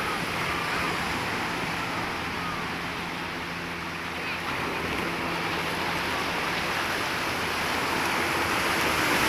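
Steady rush of waves and surf, with a faint, steady low hum underneath.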